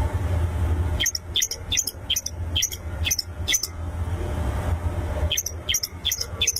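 Long-tailed shrike (pentet) calling in two runs of short, sharp, downward-sweeping notes, about three to four a second, with a pause between the runs, over a steady low rumble.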